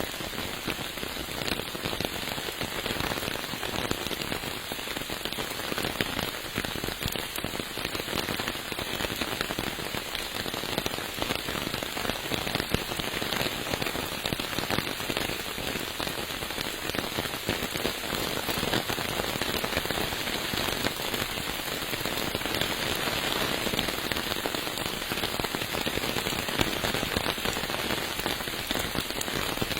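Steady rain falling, a dense even hiss with countless small drop impacts ticking close by, unchanging throughout.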